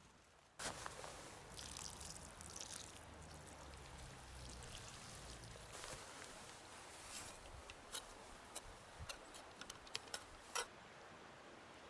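Water pouring and trickling, starting suddenly about half a second in, followed by a run of sharp clicks near the end.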